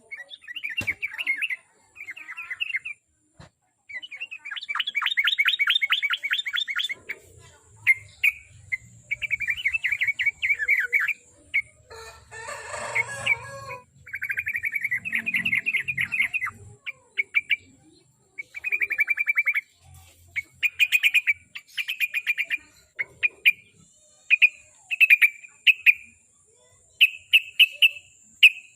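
Yellow-vented bulbul (trucuk) singing: short, bubbly phrases of quick chattering notes, repeated again and again with brief gaps. A short rustling noise comes about halfway through, and a faint steady high whine runs underneath.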